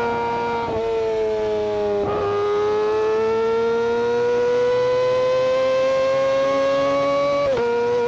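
Kawasaki Ninja ZX-25R's 250 cc inline-four engine and exhaust running at very high revs with a high-pitched howl. The pitch drops sharply under a second in, again about two seconds in and once more near the end, and climbs slowly in between.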